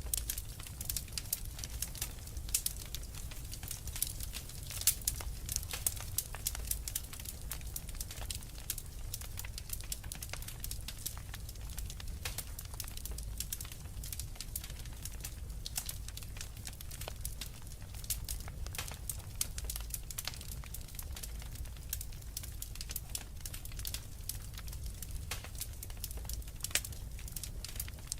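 Wood fire crackling, with a dense run of small sharp pops and snaps, busiest in the first half, over a steady low rumble of storm wind.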